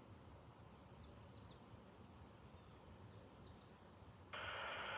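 Crickets trilling steadily with a few short bird chirps, over a faint low rumble from a distant approaching freight train. About four seconds in, a burst of hiss cuts in suddenly, a scanner radio opening up.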